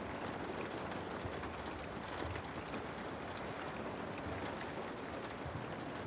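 Steady rain falling on a window, a dense even hiss with faint scattered drop ticks.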